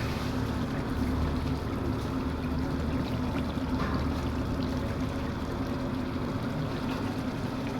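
Steady rushing roar with a low hum under it, typical of a large gas burner running under a big cooking pot.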